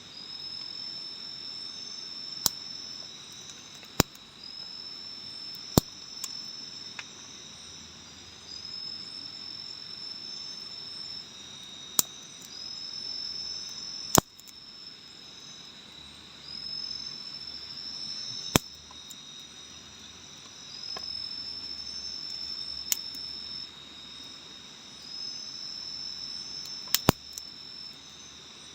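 Forest insects calling: a steady high drone, with a second, higher call that rises briefly and then holds for about two seconds, repeating every few seconds. Sharp, loud clicks or snaps stand out over it at irregular moments, about eight in all.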